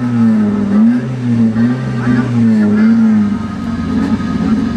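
Honda CRX four-cylinder engine held at raised revs, its pitch rising and falling in quick small swings as the throttle is worked.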